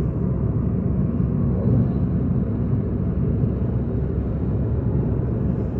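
Steady low rumble of a car driving along a highway, heard from inside the cabin: engine and tyre road noise.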